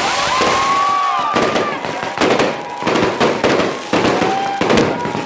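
Aerial fireworks bursting in quick succession, a steady run of loud bangs and crackles.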